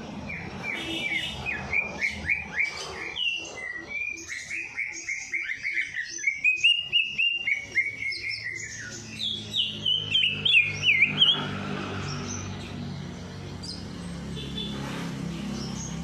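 A songbird singing a fast run of repeated downslurred whistled notes, several a second, climbing in pitch and ending in a burst of higher, sharper notes about two-thirds of the way through. After that only a low steady hum with a few faint chirps.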